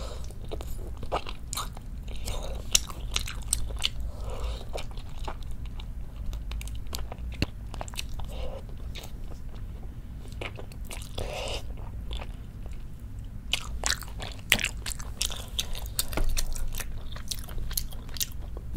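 Close-miked chewing of a piece of spicy braised chicken wing: a steady run of small sharp mouth clicks and smacks as it is bitten and chewed, growing busier in the last few seconds.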